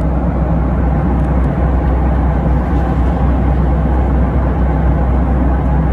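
Steady, loud roar of a jet airliner's cabin in flight: engine and airflow noise with a strong low rumble.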